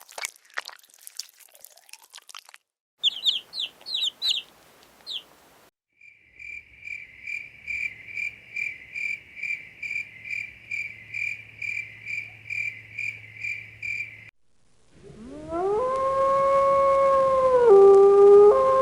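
A string of separate animal sounds: crunching clicks, a few quick high chirps, then a long run of evenly spaced high chirps at about two and a half a second. About fifteen seconds in a canine howl begins, rising in pitch, holding, and dipping briefly near the end.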